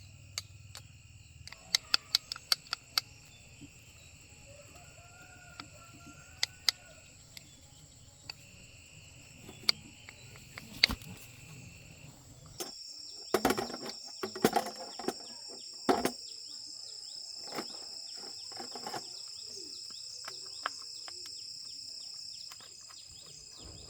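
Steady high insect drone, like crickets or cicadas, with scattered sharp clicks and knocks and a run of heavier knocks a little past halfway.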